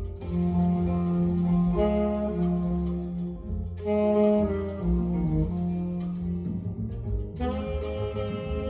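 Jazz with a saxophone playing long held notes that change pitch every second or two over a low, sustained bass.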